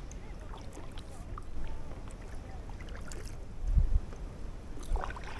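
Kayak paddling: water gurgling and trickling off the paddle blades with small splashes, over a steady low rumble of wind on the microphone, with a couple of dull low thumps near the end.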